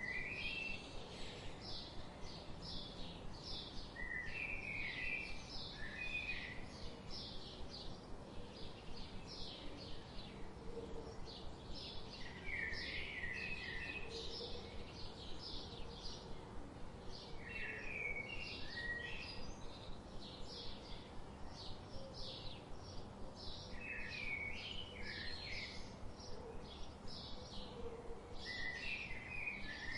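Wild birds calling and singing: a steady string of short, high chirps, about two or three a second, with a brief warbling song phrase every five or six seconds, over a low background hum.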